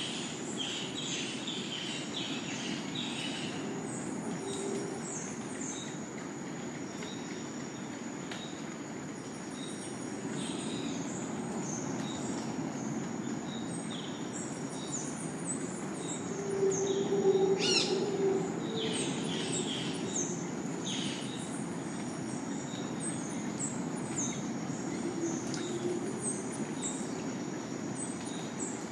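Tropical rainforest ambience: many birds calling in repeated short, falling chirps over a steady high insect whine. A louder low tone swells briefly about two-thirds of the way through.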